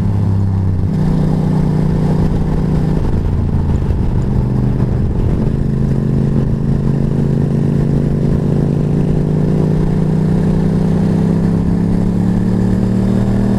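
Motorcycle engine running under way. The pattern breaks around four to five seconds in, as at a gear change, and the pitch climbs slowly toward the end as the bike accelerates.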